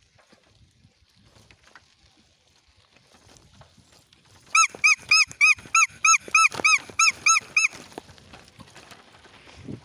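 An animal giving a fast run of about fourteen short, loud, high-pitched calls, roughly four a second, starting about halfway in and stopping abruptly about three seconds later.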